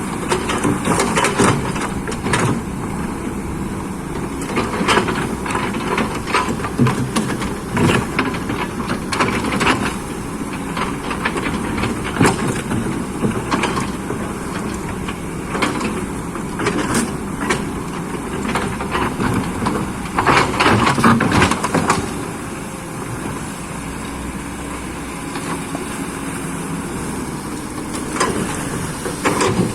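Excavator engine running steadily, with frequent irregular knocks and cracks over it and a louder cluster of them about two-thirds of the way through.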